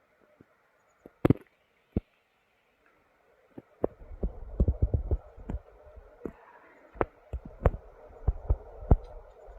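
Irregular sharp knocks and low thumps, two at first, then crowding together from about four seconds in.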